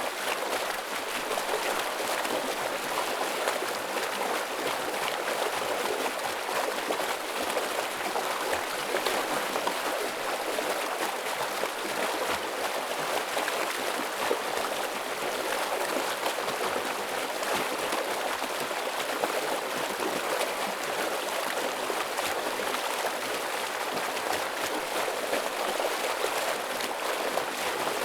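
Fast-flowing forest stream rushing and splashing over rocks: a dense, steady water noise, strongest in the middle and upper range, that does not let up.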